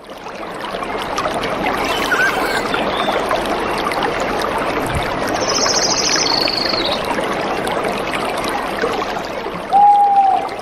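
Running water from a stream with birds calling over it: a brief whistle early, a fast high trill that drops in pitch midway, and a loud short whistled note near the end.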